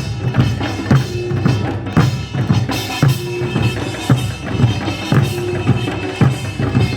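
Drumming for a Korean folk performance: a steady beat with a strong stroke about once a second and lighter strokes in between.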